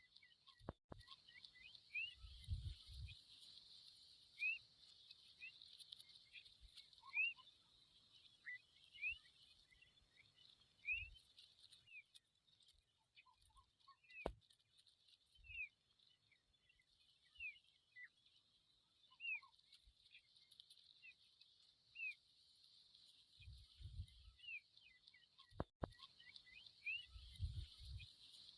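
Familiar chat fledglings giving short, high chirps every second or two, over a steady high hiss, with a few soft low thumps.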